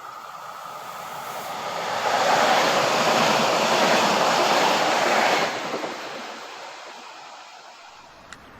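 S-Bahn train passing by: a rushing rail noise builds up, stays loud for about three seconds, then drops off suddenly as the train goes past and fades away.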